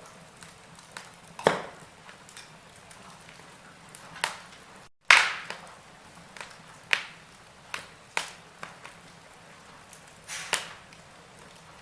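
Wood fire crackling in a fireplace: irregular sharp pops and snaps, about six strong ones among smaller ticks, over a faint hiss. The sound cuts out completely for a moment about five seconds in, then the crackling resumes with one of its loudest pops.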